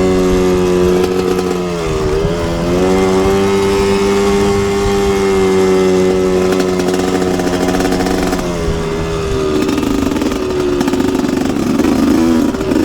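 Dirt bike engine running on the throttle at a steady pitch. The pitch dips briefly about two seconds in as the throttle is eased off and opened again. From around nine seconds in the note turns rougher and wavers up and down.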